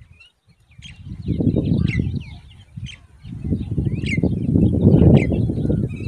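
Short high bird chirps with several sharp falling notes, over loud bursts of low rumbling noise.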